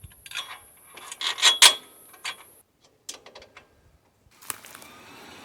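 Clicks, clinks and knocks of metal hardware and tools being handled while a bandsaw mill is assembled, with the loudest knocks about a second and a half in. Near the end the sound changes to a steady low background noise.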